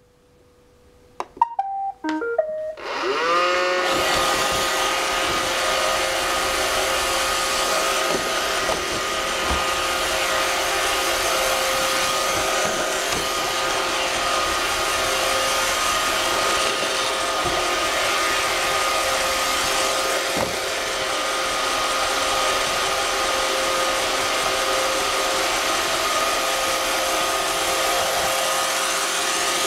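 iRobot Roomba 550 robot vacuum playing a short run of beeping tones as it starts, then its motors spin up and run steadily with a constant whine while it drives and cleans.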